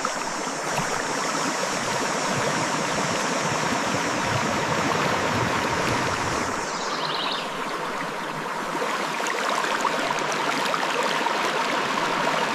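Clear river water flowing over and between rocks: a steady, even rushing.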